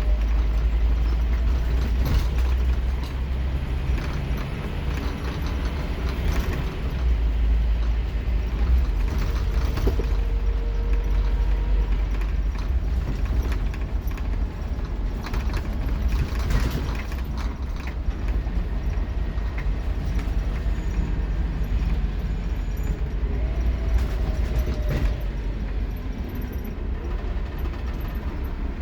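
Scania K230UB Omnilink single-deck bus heard from inside while it drives: a low, steady engine drone that rises and falls with the driving, with scattered rattles and clicks from the bus's fittings.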